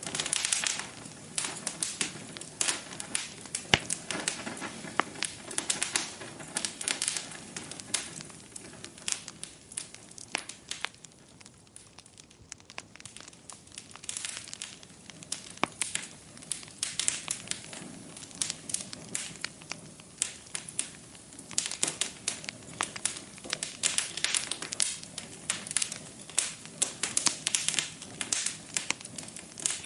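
Wood fire burning in a fireplace, crackling with dense, irregular pops and snaps over a faint hiss. The crackling thins out for a few seconds around the middle, then picks up again.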